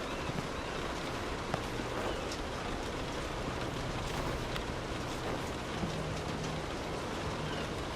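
Steady rain falling on street surfaces: a dense, even hiss with scattered sharper drop ticks.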